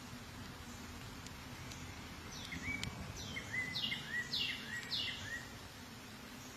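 A songbird sings one phrase of about four loud, repeated downslurred notes, roughly two a second, from a little over two seconds in until about five and a half seconds. Under it, honeybees at the hive keep up a steady low hum.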